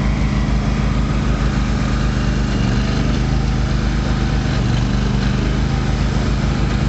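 Log splitter's small gasoline engine running at a steady speed.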